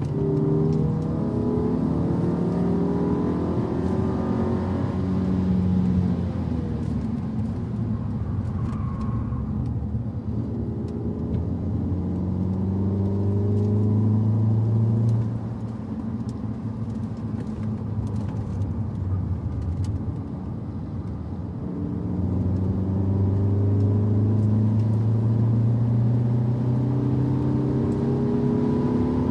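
A car engine driven hard on a race circuit, pulling up through the revs with rising pitch. It drops back about halfway through and builds again in a long climb toward the end.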